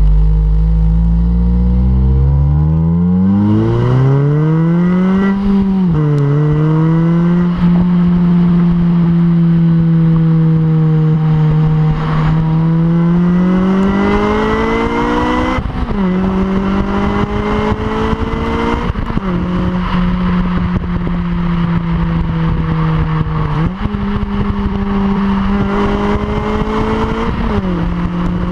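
2007 Honda Civic Si's 2.0-litre four-cylinder engine through its stock exhaust, with a short ram intake, pulling away from low revs with the pitch climbing. The pitch then falls sharply at an upshift about six seconds in. After that it alternates between stretches of steady cruising and further pulls, each rise cut off by a sudden drop in pitch about two thirds of the way through and again near the end, with one quick jump up in pitch late on.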